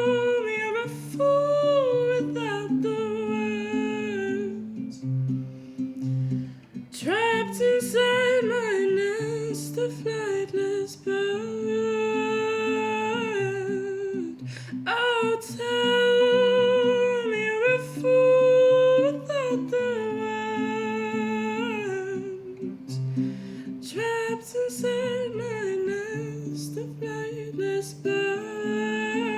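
A woman's wordless humming melody over a plucked acoustic guitar accompaniment, in a song's closing section.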